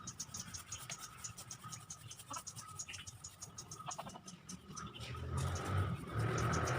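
Insects chirping in quick, evenly repeated pulses, with a few faint scrapes or knocks. A low hum swells in near the end.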